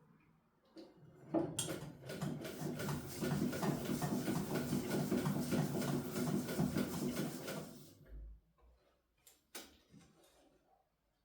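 Domestic sewing machine stitching in a fast, even rhythm, starting about a second in and stopping about eight seconds in, followed by a couple of sharp clicks. The owner says the machine sews stiffly even after oiling.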